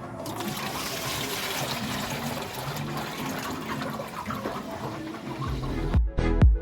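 Water pouring into a poultry water trough as it is filled to the brim. Near the end, electronic dance music with a heavy beat comes in.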